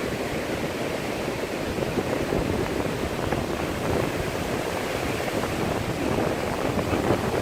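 Ocean surf washing onto the beach: a steady rushing noise.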